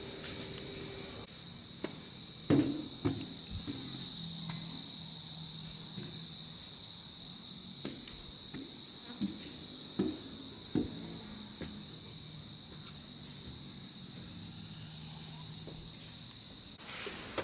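Insects, crickets or similar, shrilling in a steady, unbroken high chorus, with a few scattered knocks, the loudest about two and a half seconds in.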